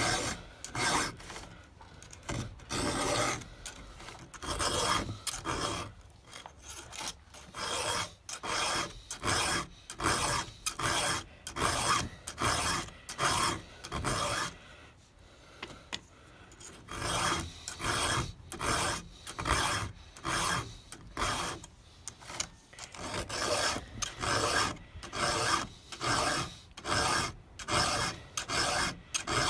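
A 4 mm round file being pushed across the cutter teeth of a Stihl 200T chainsaw chain, a rhythmic rasping a little over one stroke a second, with a short pause about halfway through.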